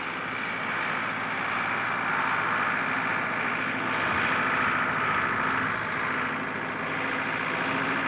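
A steady engine running, a continuous hum with a faint steady low tone, swelling a little in the middle.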